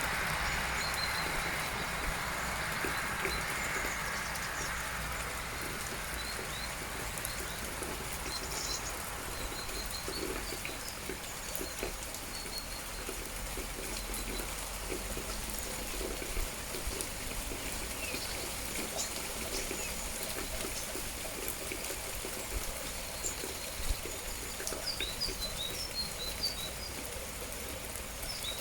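Steady rain falling and dripping, with small birds giving short high chirps now and then, most of them near the end. A passing road vehicle fades away over the first few seconds.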